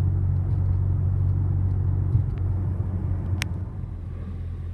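Low, steady rumble of a vehicle, with one sharp click about three and a half seconds in; the rumble eases slightly near the end.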